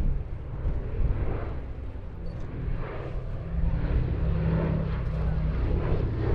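Boeing B-17G Flying Fortress flying past, its four Wright Cyclone radial piston engines and propellers making a steady low drone that grows louder through the second half.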